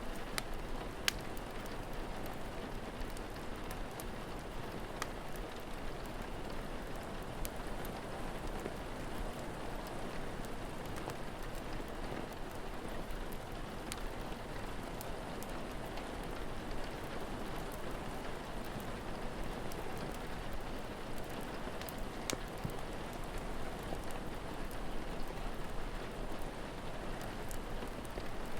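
Steady rain with a crackling fire: an even hiss of rainfall with scattered sharp pops from the burning fire.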